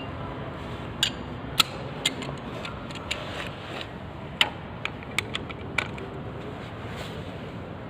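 Sharp metallic clicks of a hand tool on the engine's oil drain plug as it is tightened back in: about a dozen irregular clicks, roughly two a second, stopping about six seconds in, over a steady background hum.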